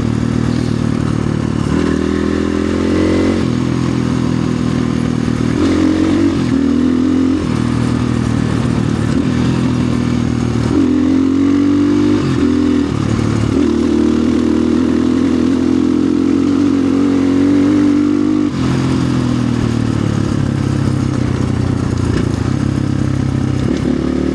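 Orion RXB250XL dirt bike's 250 cc engine being ridden on a trail, its revs rising and falling over and over with throttle and gear changes, with a brief drop in revs about three-quarters of the way through.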